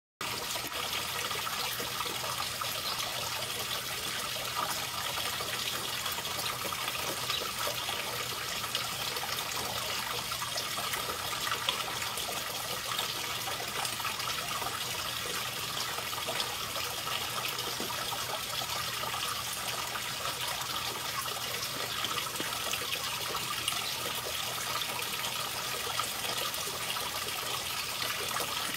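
Steady trickling, running water, unchanging throughout.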